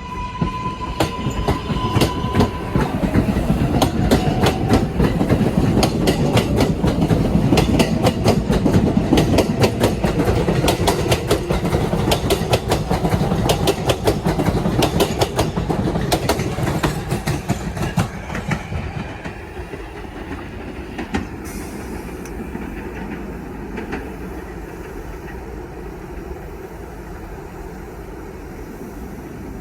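New York City subway 4 train pulling out and passing, with a motor whine rising in pitch over the first few seconds and wheels clattering rapidly over the rail joints. It is loudest around the middle, then fades away over the last ten seconds. A steady tone sounds for the first couple of seconds.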